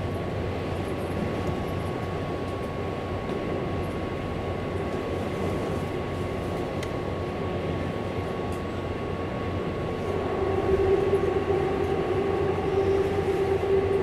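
Keihan 8000-series electric train running, heard from inside the car in an underground tunnel: a steady rumble of wheels and traction gear with a thin steady whine. It grows louder about ten seconds in.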